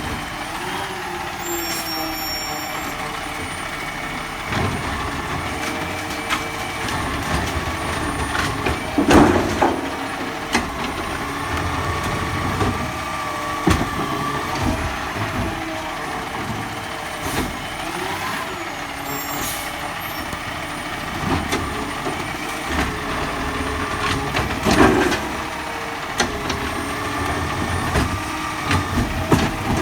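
Garbage truck working, its engine and hydraulics running steadily, with small knocks throughout and two heavy bangs, about nine seconds in and again near the end.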